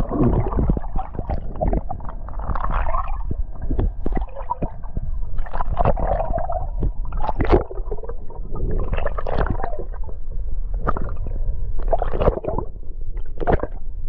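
Water gurgling and sloshing in irregular bursts, over a steady low rumble.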